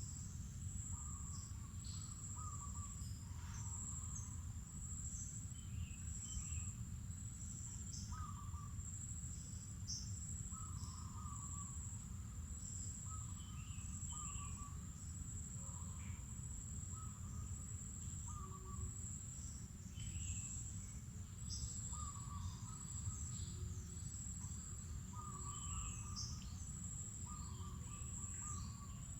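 Steady high-pitched insect drone with birds calling over it: a short low phrase repeated every couple of seconds and scattered higher chirps. A low rumbling background noise sits underneath.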